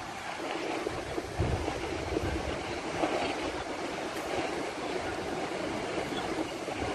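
Steady outdoor rushing noise, with wind buffeting the microphone in low, uneven gusts.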